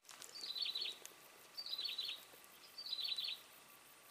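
A bird calling a short, quick high phrase over and over, three times about a second and a quarter apart.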